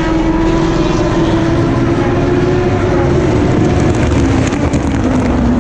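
Race car engines on the circuit running as a steady drone, one engine note slowly falling in pitch.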